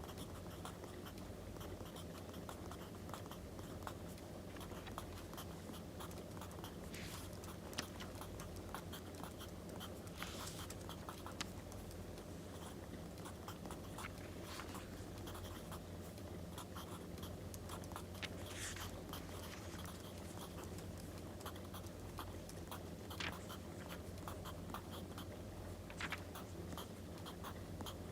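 Crackling wood fire, with many small sharp pops and snaps over a steady low rumble, and now and then a pencil or pen scratching on paper.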